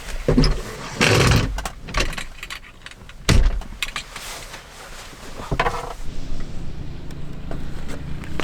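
Knocks, clunks and rustling in and around a car, the sharpest a single hard thud about three seconds in. About six seconds in, a steady low hum sets in and holds.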